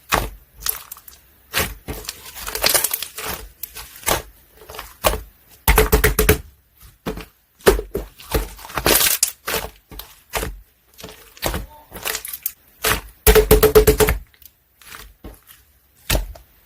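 Clear green jelly slime being squished and worked by hand, giving sharp crackling clicks and pops, with two dense runs of rapid popping about six and thirteen seconds in.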